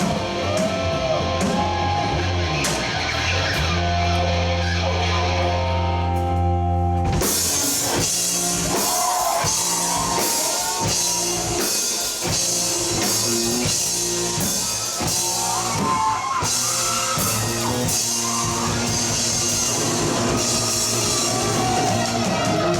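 Live rock band playing an instrumental passage on electric guitars, bass and drum kit. For about the first seven seconds held low chords ring under a bending guitar line, then the drums come in with steady hits under the guitars.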